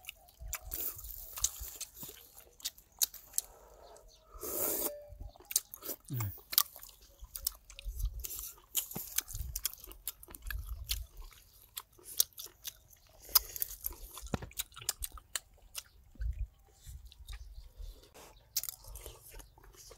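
A person eating close to the microphone, chewing and biting with irregular crunches and wet clicks, most likely on duck meat from the mushroom soup.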